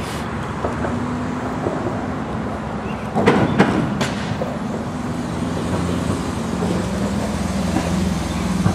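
Road traffic passing steadily, a continuous hum of car engines and tyres, with a louder moment about three seconds in.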